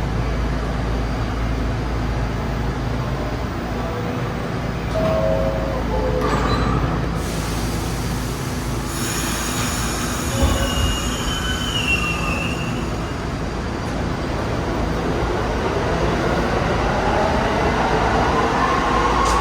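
New York City subway train in the station: a steady rumble of wheels on rail, with short wheel squeals about five seconds and ten seconds in, and a whine rising in pitch over the last few seconds as a train's motors pick up speed.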